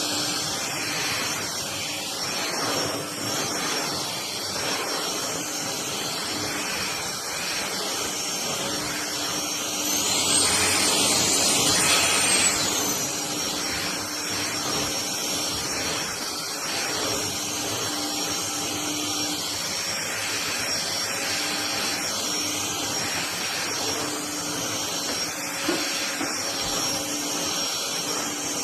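FDUXUD cordless stick vacuum running: a steady suction hiss with a high motor whine. About ten seconds in, the whine rises in pitch and gets louder for roughly three seconds, then drops back to its earlier speed.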